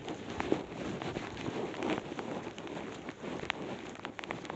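Steady rain falling, with scattered sharp taps of drops close to the microphone.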